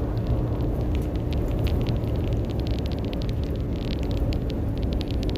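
Steady low rumble with a faint hum and scattered light ticks and crackles throughout.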